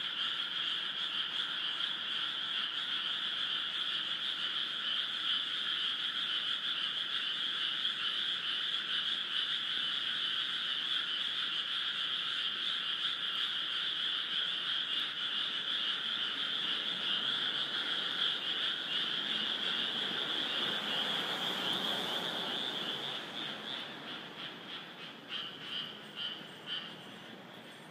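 A large chorus of frogs calling all at once, a dense, unbroken croaking. It thins out over the last few seconds, leaving a few separate calls.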